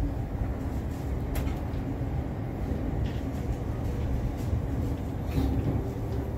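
Commuter electric train running, heard from inside the carriage: a steady low rumble with a faint hum and a few sharp clicks.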